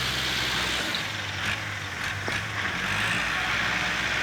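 Tractor engine running steadily, its low hum dipping and shifting between about one and three seconds in, with a few faint knocks.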